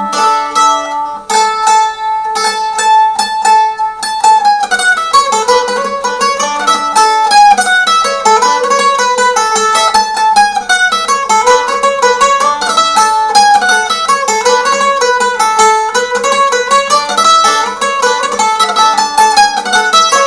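A restored 1909 Calace bowlback mandolin strung with ultra-light steel strings being played solo: a few ringing notes and chords first, then from about four seconds in a melody picked in quick repeated notes. Fairly loud, with a round, mellow tone.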